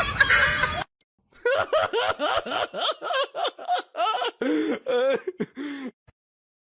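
A person laughing in a rapid run of short bursts for a few seconds, then stopping.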